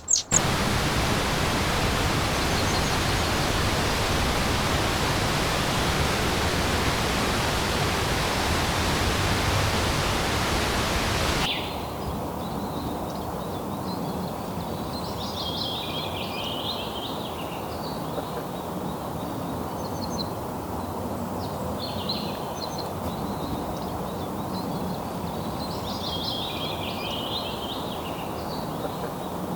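Loud, steady rushing of falling water. About eleven seconds in it cuts off sharply to a quieter hiss, over which high chirping animal calls come in short bouts roughly every five seconds.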